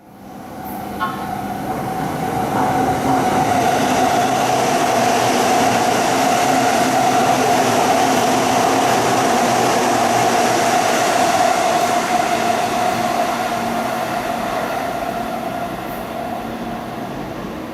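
JR East E233-series electric train running past, its wheels on the rails making a loud, steady rumble with a ringing tone. The sound builds over the first few seconds, then eases off near the end.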